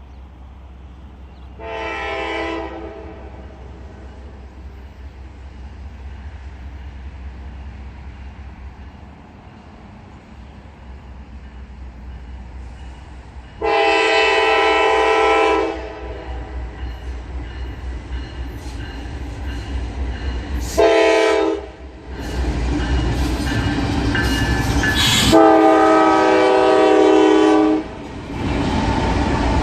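Train horn sounding four blasts as a train approaches: short, long, short, long. From about two-thirds of the way in, the train passes close, with a loud rumble and wheel clatter under the last blast.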